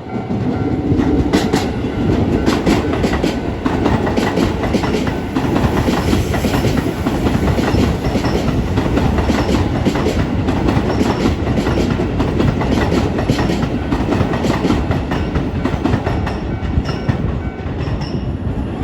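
Keisei 3000 series electric train passing close by over a level crossing: a loud, steady rumble of steel wheels on rail with rapid repeated clacks as the wheels run over rail joints and the crossing.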